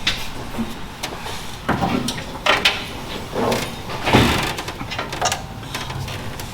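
Irregular clunks, knocks and rattles of parts and tools being handled while working on an old truck, the loudest about four seconds in.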